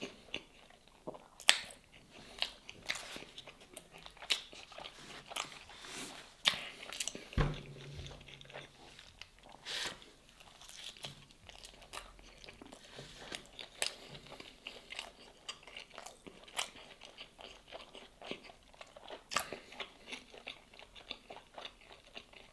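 Close-up chewing of a soft stuffed pastry with a stretchy cheese filling: wet mouth clicks, lip smacks and small crunches, irregular and frequent. A short hummed 'mm' comes about seven and a half seconds in.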